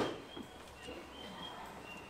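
Small birds chirping faintly: short, high chirps repeated every few tenths of a second, at two slightly different pitches, over a low background hum. A sharp knock fades out at the very start.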